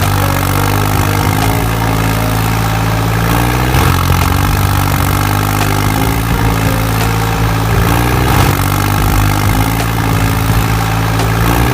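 Tractor-like engine running steadily, with small shifts in pitch.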